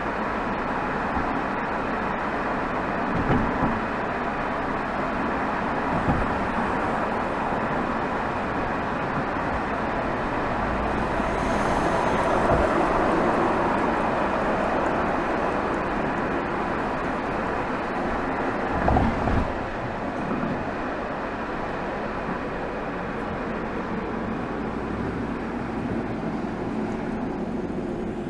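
Exhaust of a BMW 320xd's 2.0-litre four-cylinder turbodiesel (B47) recorded at the tailpipe while driving in town: a steady mix of exhaust and road noise that swells a little about halfway through, with a few short thumps.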